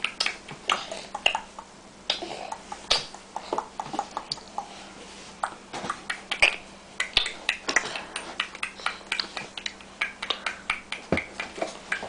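A baby making playful mouth noises: many quick, irregular clicks and smacks with short, high squeaks between them.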